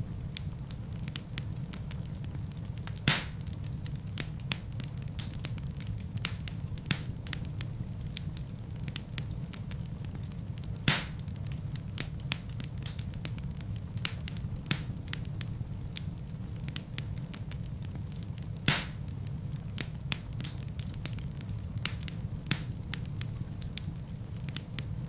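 Wood fire burning in a fireplace: a steady low rumble of flames with irregular crackles and pops, a few louder snaps standing out among them.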